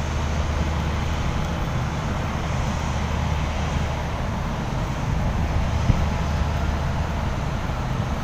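A large engine droning steadily: a constant low hum under an even wash of noise that does not change.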